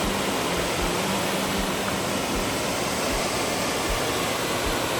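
Lower North Falls, a waterfall, rushing in a steady, even roar of falling water, with faint low thumps recurring under it about every three quarters of a second.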